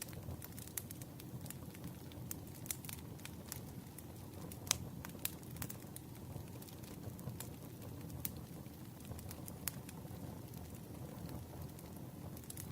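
Campfire crackling: irregular sharp pops and snaps of burning wood over a low, steady rumble of flames, with one louder pop about five seconds in.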